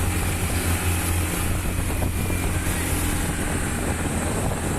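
Motorbike engine running steadily while riding, with wind noise on the microphone.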